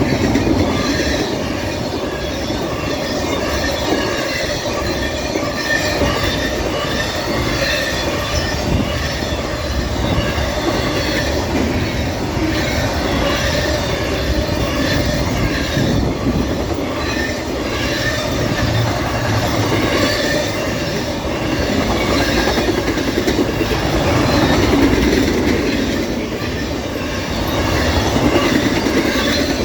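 Norfolk Southern freight train rolling steadily past, the steel wheels of its cars running on the rails.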